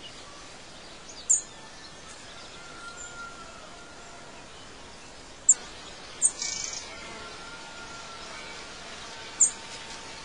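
Birds chirping over a steady outdoor background hiss; four short, sharp, high chirps stand out above fainter warbling song.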